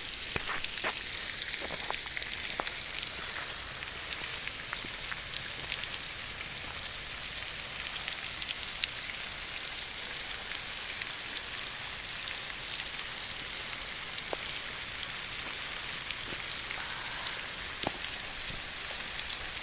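Waterfall splashing down into a pool: a steady hiss with scattered sharp drips and splashes.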